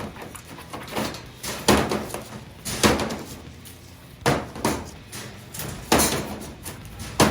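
Moluccan cockatoo banging and throwing toys and bowls around its cage: a series of about seven sharp knocks and clatters, each with a short ring. It is a territorial display of anger.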